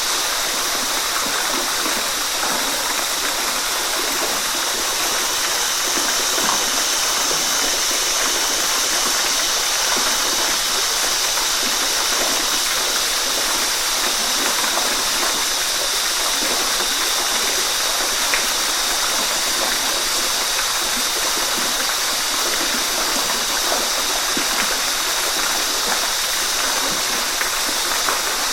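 Waterfall: a steady, even rush of falling water with small splashes in it.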